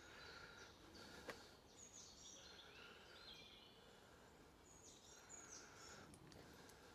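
Faint, distant birdsong: several short chirping phrases from small birds, heard over quiet woodland background, with a single soft click about a second in.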